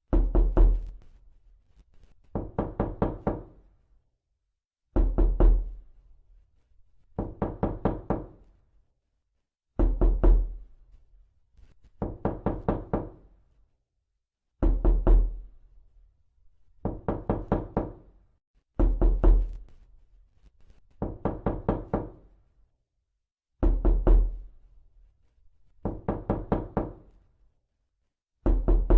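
Repeated knocking in quick bursts of about five to seven raps each, a burst roughly every two seconds.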